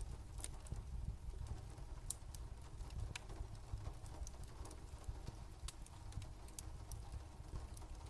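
Fire crackling: irregular sharp pops and clicks over a steady low rumble.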